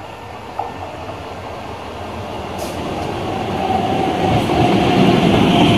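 Electric multiple unit (EMU) local train approaching along the platform and running past close by, its running noise growing steadily louder. A faint steady whine joins in about halfway through.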